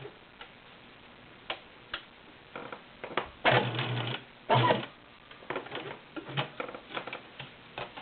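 Viking Husqvarna Selectronic 6570 sewing machine running in two short bursts of about a second each, a little past the middle, with scattered light clicks from the machine in between.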